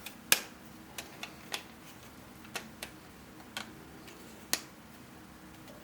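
3D-printed plastic puzzle pieces clicking and tapping against each other as they are handled and pushed together. The clicks come at irregular intervals, a loud one just after the start and another about three-quarters of the way through, with fainter ticks between.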